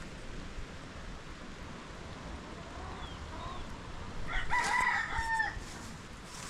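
A rooster crowing once, a single call of just over a second starting about four seconds in. Fainter short bird calls come a second or so before it.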